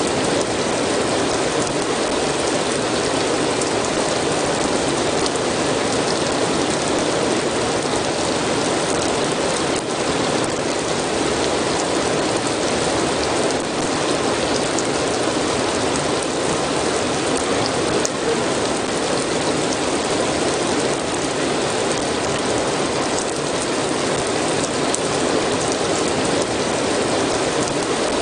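Steady, dense rainfall with scattered drop clicks.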